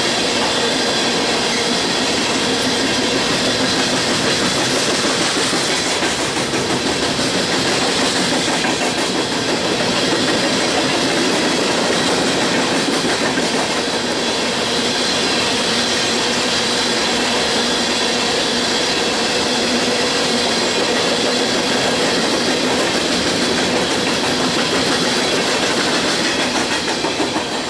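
Empty coal hopper cars of a freight train rolling past, their wheels clattering on the rails with steady high tones running through the noise. The sound begins to drop away near the end as the last car passes.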